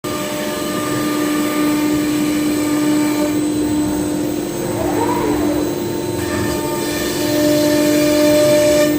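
ShopSabre Pro 510 CNC router running as it machines MDF: a steady whine over a constant rushing noise, with a brief rise and fall in pitch about five seconds in.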